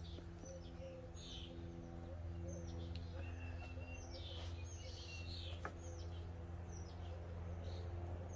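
Small birds chirping and tweeting in short, scattered calls, over a faint steady hum.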